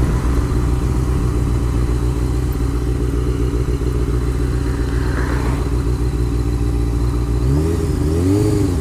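Honda CBR motorcycle engine running steadily while riding. Near the end the engine pitch rises and falls a couple of times as the throttle is worked.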